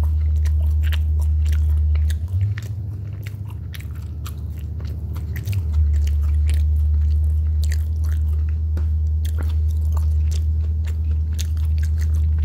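A person chewing a mouthful of crispy fried chicken sandwich close to the microphone, with many small crunches, over a steady low hum.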